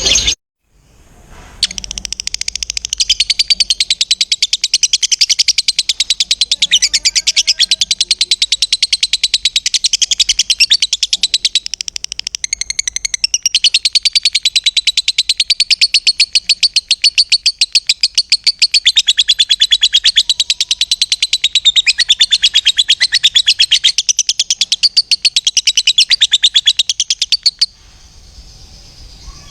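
Lovebird singing its long 'ngekek' chatter: a fast, unbroken run of shrill, high notes that goes on for about 26 seconds and then cuts off abruptly near the end.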